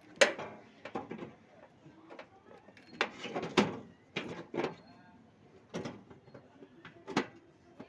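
Irregular sharp knocks and clatter, about nine in all, like tools or metal parts being handled during repair work on an air-conditioner outdoor unit.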